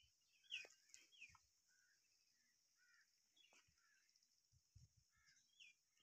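Faint bird chirps: short, falling chirps repeated every second or so, with a few soft low thumps beneath.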